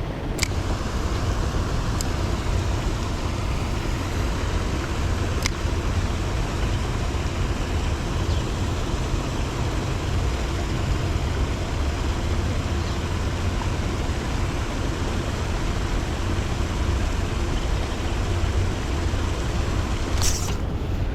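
Steady outdoor noise with a heavy low rumble and a few sharp clicks.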